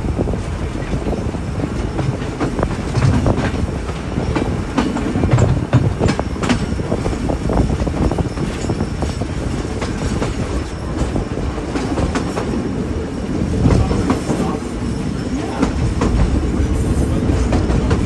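Railroad passenger car rolling along the track: a steady rumble of wheels on rail with irregular clanks and clickety-clack knocks from the rail joints and couplings.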